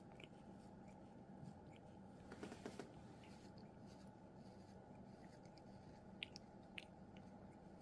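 Norwegian Forest Cat chewing: faint, scattered crunching clicks, with a short cluster about two and a half seconds in and two sharper clicks near the end.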